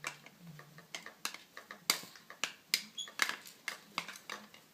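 Irregular light clicks and clacks, about two or three a second, from a baby playing on an activity play mat.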